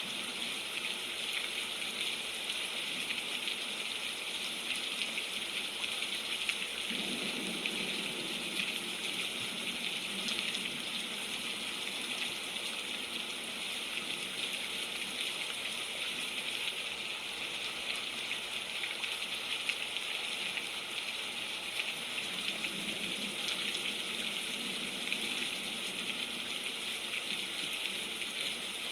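Steady heavy rain falling, an even hiss of water without a break.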